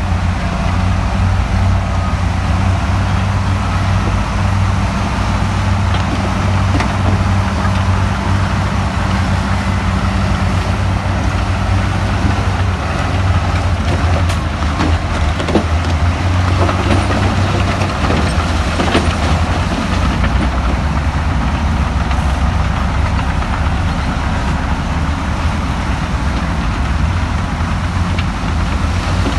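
Heavy diesel engine of earthmoving machinery running steadily, with a few sharp knocks about halfway through.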